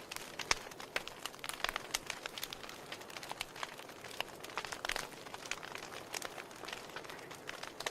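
Wood fire burning in a fireplace: a steady hiss under irregular sharp crackles and pops from the burning logs.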